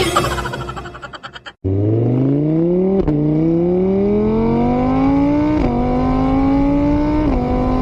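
Music fading out, then a car engine accelerating hard. Its pitch climbs steadily and drops back three times as it shifts up through the gears.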